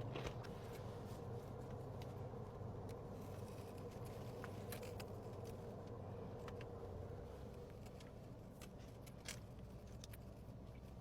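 Faint, quiet eating: a few soft mouth clicks over a steady low hum.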